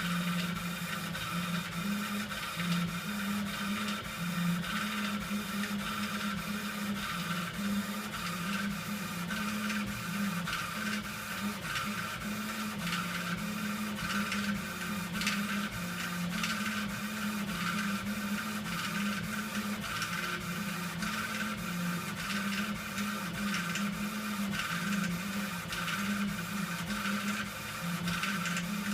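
Epilog laser engraver running, its motors giving a low hum that keeps stepping back and forth between two pitches, with a light rattle of clicks throughout. The rattle is an unwanted noise from the machine.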